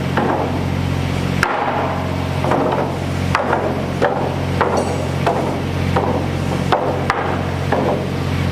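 Repeated hammer blows, roughly one to two a second, over the steady drone of an engine running.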